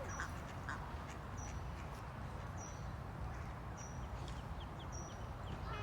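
Ducklings peeping: short high peeps about once a second over a steady low rumble, with a duck's quack starting right at the end.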